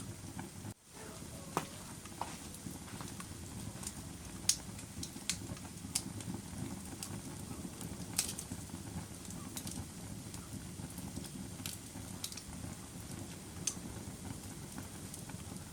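Wood fire burning in a fireplace: a steady low rush of flames with scattered sharp crackles and pops, about a dozen of them. The sound briefly drops out about a second in.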